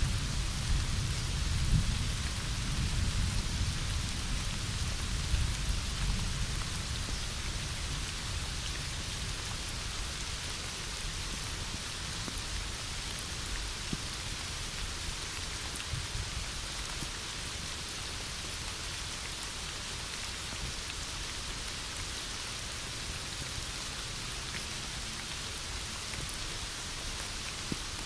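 Heavy rain falling steadily, a dense even hiss. A low rumble of thunder dies away over the first several seconds.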